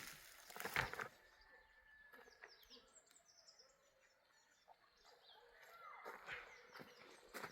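Small birds chirping, with a quick run of short, high chirps a few seconds in, over faint outdoor quiet. A couple of sharp knocks come in the first second.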